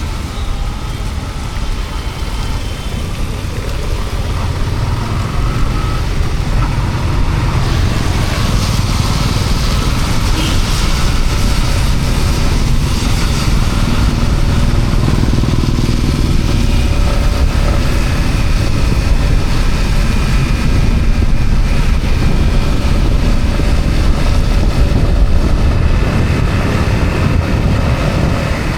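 Yamaha MT-15's single-cylinder engine running under way, with wind and road noise on the microphone; it gets louder about six seconds in and then holds steady.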